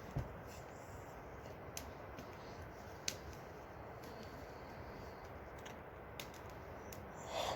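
Steady faint background noise with scattered light clicks and taps, and a short louder rustle near the end.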